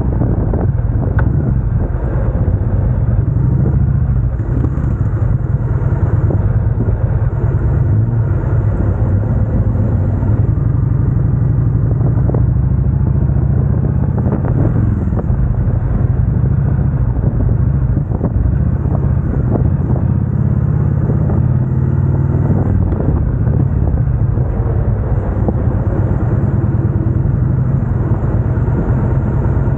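Chopper motorcycle engine running steadily, a continuous low engine sound with no breaks.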